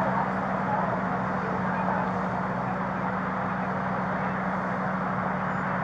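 Steady vehicle noise: a constant engine hum over an even rush of road traffic.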